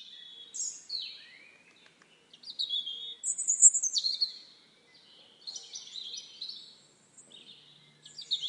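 Songbird singing: several short phrases of high twittering and warbling notes with falling sweeps, each phrase separated by a brief pause.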